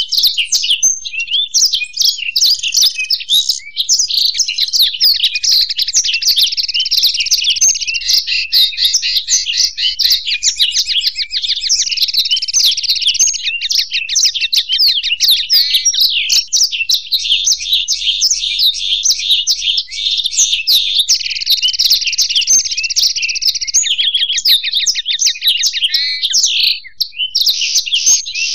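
Continuous song of finches, a black-throated canary and a European goldfinch: rapid twittering notes and fast, trilled runs that follow one another without a pause.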